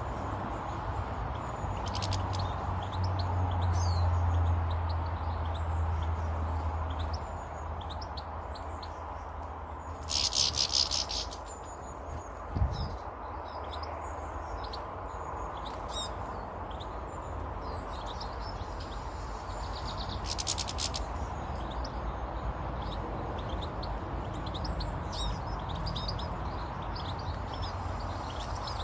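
Small garden birds chirping and twittering, with many short calls throughout. Two brief loud noisy bursts break in about ten seconds apart, and a low hum runs through the first few seconds.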